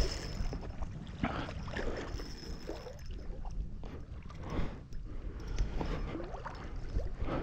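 Shallow floodwater splashing and sloshing in short irregular bursts over a low, steady rumble.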